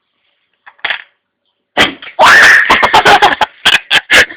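A loud, distorted run of cracks and bangs starting about two seconds in: an egg bursting in a microwave oven.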